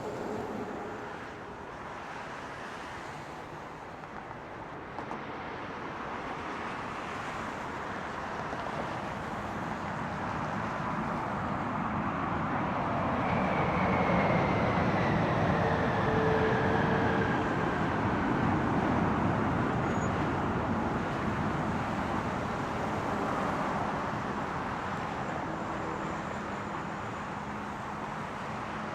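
Boeing 787-9 Dreamliner's jet engines as the airliner passes while landing: the noise grows to a peak about halfway, with a whine that falls in pitch as it goes by, then slowly fades.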